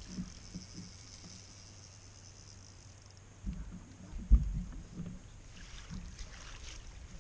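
Soft low bumps and knocks in a fishing boat while a hooked fish is landed, with one sharp thump about four seconds in.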